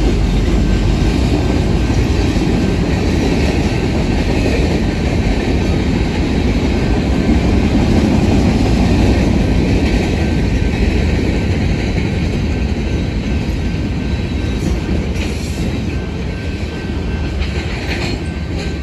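Freight cars of a manifest train rolling past, a steady rumble of wheels on rail that eases slightly near the end.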